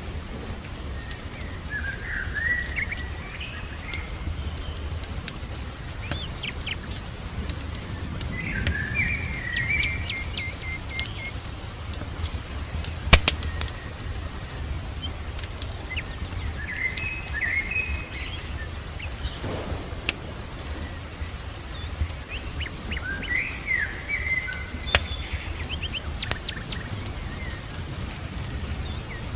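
A songbird singing short warbling phrases, repeated every six seconds or so, over a steady low rumble. Scattered sharp crackles and pops run throughout, two of them louder, about 13 and 25 seconds in.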